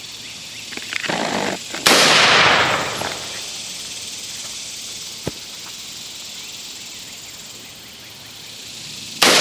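Two gunshots fired about seven seconds apart, each a sharp crack followed by a long fading echo. A steady high hiss of insects runs underneath.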